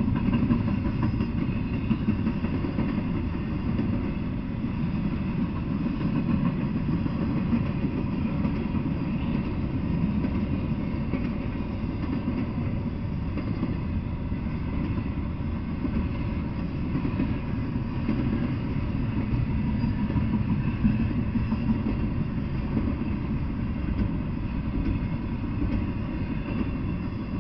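Double-stack intermodal freight train rolling past, a steady rumble of steel wheels on the rails, dropping off slightly at the very end as the last cars go by.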